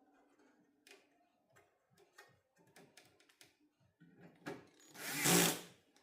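Light clicks and taps of tools and parts being handled on a workbench, then a loud burst of rushing, whirring noise lasting about a second near the end.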